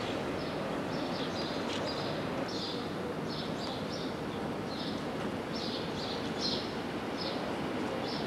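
Birds chirping in short, irregular calls, several a second, over a steady background of outdoor noise.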